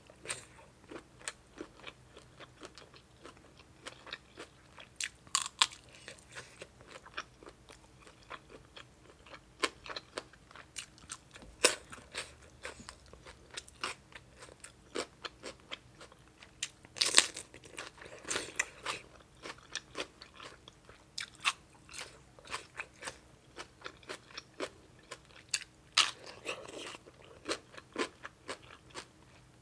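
A person chewing and biting crunchy food close to the microphone: a run of irregular crunches and mouth clicks, with a few louder crunches now and then.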